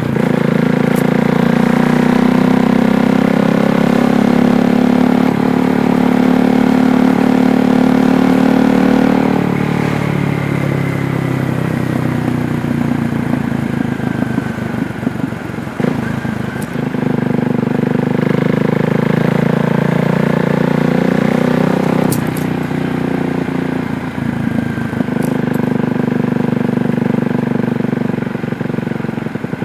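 KTM Duke 390's single-cylinder engine pulling steadily under throttle, then easing off about a third of the way in, with the sound thinning and dropping in pitch. It picks up again twice before the end.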